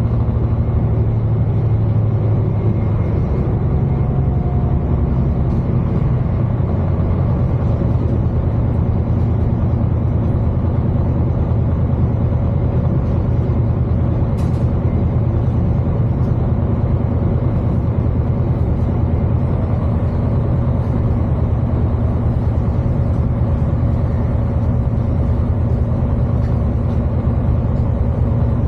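Class 221 Super Voyager's underfloor diesel engine running, a steady low drone with a faint steady hum above it, heard from inside the coach. A single sharp click about halfway through.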